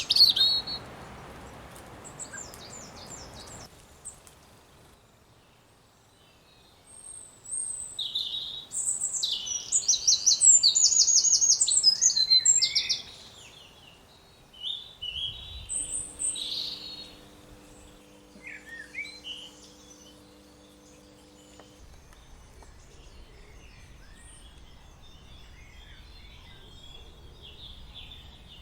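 Garden songbirds singing and calling: several high-pitched phrases of quick repeated notes and trills, the loudest and longest run about a third of the way in, with quieter, scattered chirps later.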